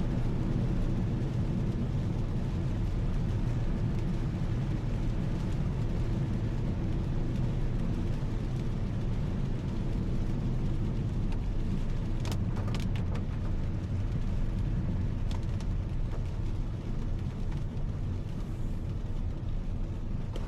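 A car being driven: steady low road and engine noise, with a few brief clicks about twelve seconds in.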